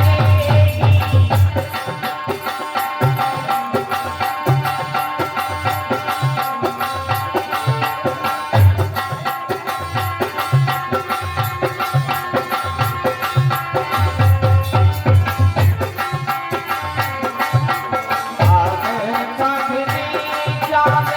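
Instrumental interlude of an Indian folk song: a hand drum plays a steady rhythm under sustained melody instruments, with no singing.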